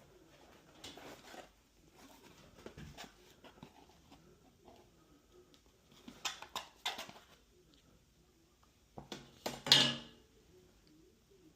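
Intermittent scrapes, taps and light clatter of hand tools and materials during drywall repair, with a cluster of knocks about six seconds in and the loudest scrape near the end.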